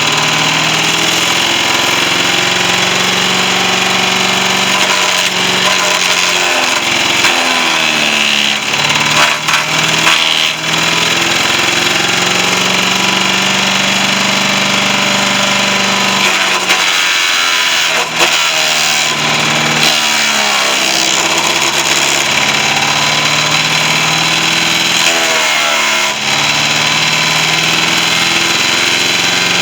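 Tecumseh engine of a vintage Yardman SC8 chipper-shredder running, its pitch dipping and recovering several times as it labours under load.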